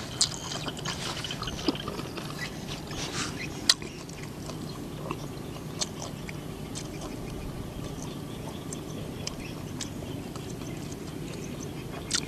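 A person chewing with the mouth closed, with soft smacks and clicks scattered over a steady low background noise.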